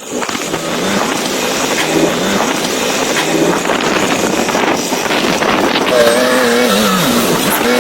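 Heavy diesel earthmoving machinery running hard, a steady loud engine noise with a gritty rumble. About six seconds in, a wavering pitched whine rises and falls over it.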